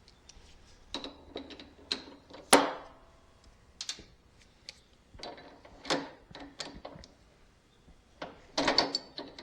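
Small metal parts handled by hand during mower repair: an irregular run of clicks and clanks, such as washers and tools being picked through and tried on the lap bar pivot, loudest about two and a half seconds in.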